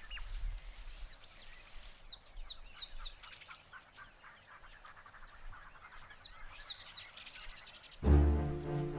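Birds calling with quick, high chirps that sweep downward in pitch, repeated in short runs over a soft background hiss. Music comes in near the end.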